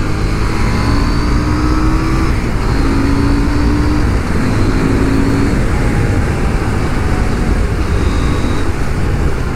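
KTM Duke 790's parallel-twin engine running at steady riding speed, under heavy wind rush on the bike-mounted microphone.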